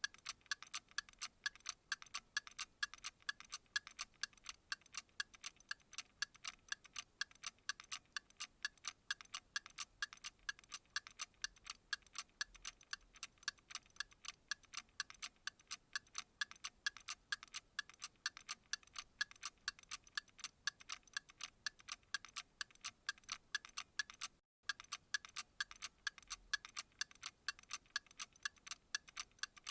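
Steady, evenly paced ticking, a quick run of light clicks repeating without change. It drops out for a split second about three-quarters of the way through.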